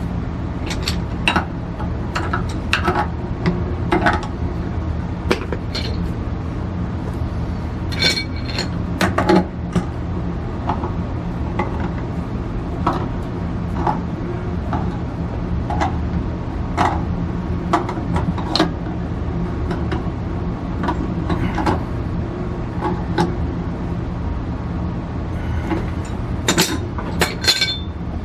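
Scattered metal clinks and knocks of hand tools and fittings being worked, one to a few a second, over a steady low hum.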